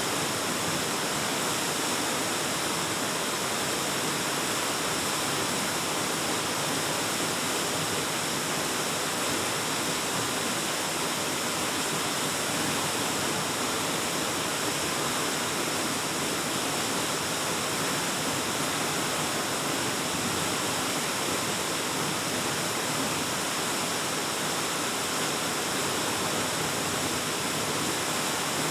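Waterfall pouring into a cave, a steady rushing of water with no change in level.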